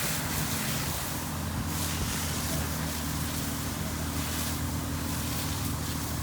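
A boat's engine running steadily with a low hum, with wind blowing across the microphone in gusts.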